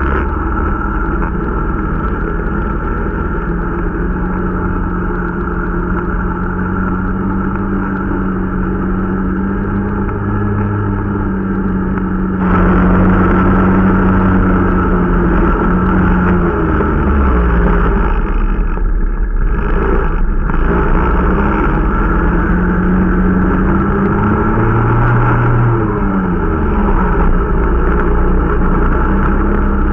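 Irbis Dingo T125 snowmobile's 125 cc engine running while riding during break-in, its pitch drifting up and down with the throttle. It gets louder about twelve seconds in, drops off briefly about two-thirds of the way through, then picks up again.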